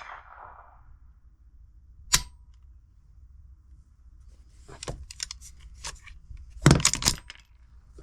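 Gunfire: a single sharp shot about two seconds in, then a run of lighter clicks and clatter, and a louder cluster of sharp cracks near the end.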